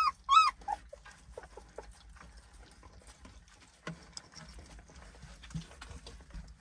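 Dog whining in short, high-pitched yelps: two loud ones at the start, then a few fainter whimpers that die away within about two seconds.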